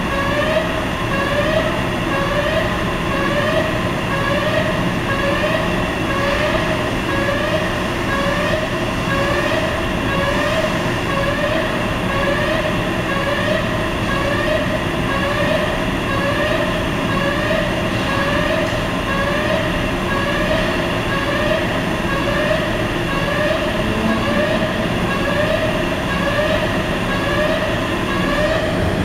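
A ferry's movable vehicle ramp in operation: a rising pitched tone repeats about one and a half times a second over a steady machinery hum.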